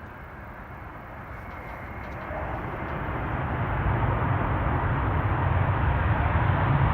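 Airbus A380 four-engine jet airliner approaching to land, its engine rumble and roar growing steadily louder as it nears.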